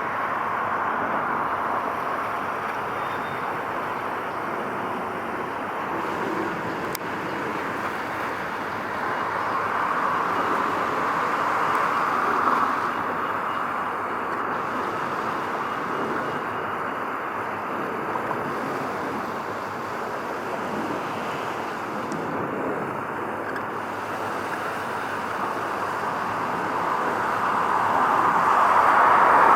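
Steady outdoor noise of road traffic mixed with wind, swelling about ten seconds in and again near the end.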